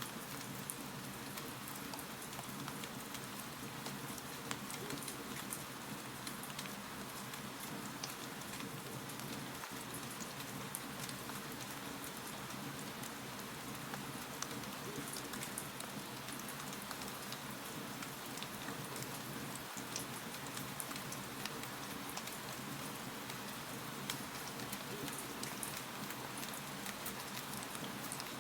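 Wood fire crackling in a fireplace: a steady hiss with many scattered small pops and ticks.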